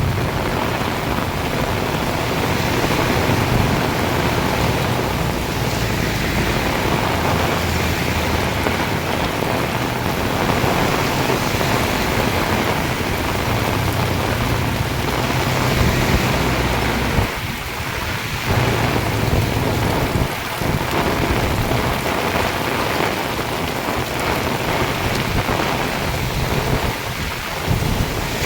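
Heavy rain pouring down steadily, with a deep low rumble underneath for much of the time and a few brief lulls.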